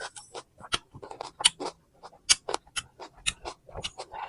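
Close-up chewing of crunchy fresh fruit: rapid, irregular crunches and wet mouth clicks, several a second.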